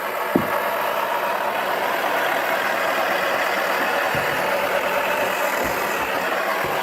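Toy washing machine's small motor whirring steadily as its drum turns, with a few knocks from the balls, including a small rugby ball, tumbling inside.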